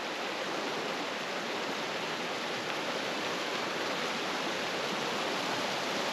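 Stream water rushing steadily, an even hiss without breaks.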